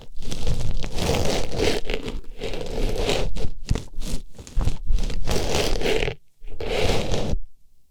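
An artificial rose being pushed into and rubbed around an ear as an ASMR ear-cleaning sound: close, crunchy, scratchy rustling in repeated strokes, with a brief break about six seconds in, stopping shortly before the end.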